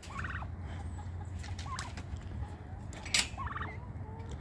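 Domestic turkey gobbling: three short gobbles about a second and a half apart, with a sharp click a little after halfway.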